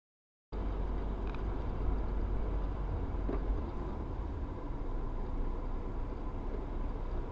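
Steady low rumble of a car driving, recorded by a dashcam, with a faint steady whine; it starts abruptly about half a second in.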